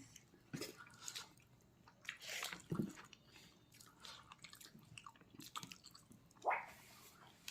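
A person chewing and biting pork leg close to the microphone: wet mouth smacks and squishes at an uneven pace, with a louder cluster of chewing a couple of seconds in.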